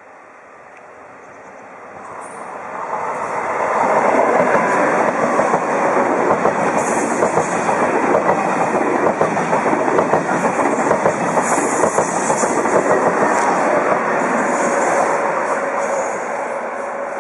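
High-speed train running past on the rails: a dense rushing noise with some clatter from the wheels. It swells over the first few seconds, holds, and eases off near the end.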